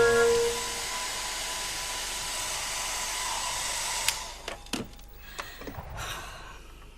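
Hand-held hair dryer blowing with a steady whine, switched off with a click about four seconds in, followed by a few light knocks.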